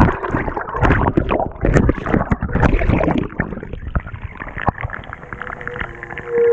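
Water and laundry churning and sloshing around the agitator of a GE GTW220ACKWW top-loading washer, heard from inside the tub, with many irregular knocks and splashes. The churning eases off about four seconds in.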